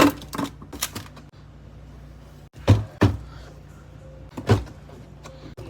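Containers and items being handled and set down while organizing a refrigerator: a series of short knocks and clunks, a few clustered at the start and a louder pair about three seconds in, over a steady low hum.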